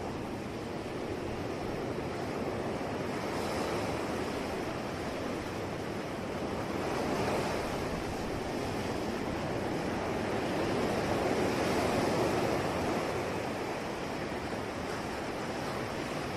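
Ocean waves breaking and washing ashore. A steady rush of surf swells and falls slowly, with the two largest waves about seven seconds in and near twelve seconds in.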